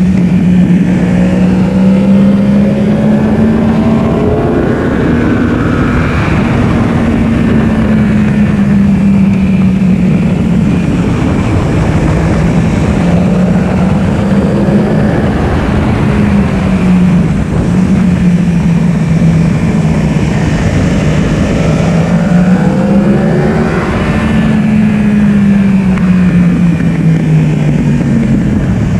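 Yamaha R1's inline-four engine running hard on track, heard from on board the bike, its pitch rising and falling steadily as it accelerates and backs off.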